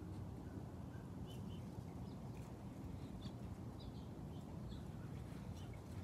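Faint outdoor ambience: small birds chirping now and then with short high notes over a low, steady background rumble.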